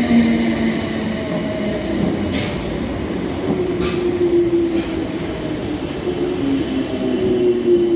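Electric train's traction motors whining, the pitch falling slowly in steps as the train slows, with a few sharp clicks from the wheels over the rails.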